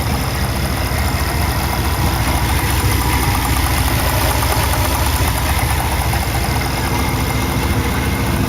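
Rebuilt LT1 350 V8 with aluminum heads in a 1988 Chevrolet Monte Carlo SS, idling steadily; it runs quiet.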